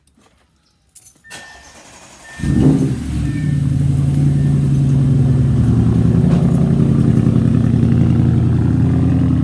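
Car engine starting about two and a half seconds in, flaring briefly and then settling into a steady idle. Before it come a click and a few short chime tones.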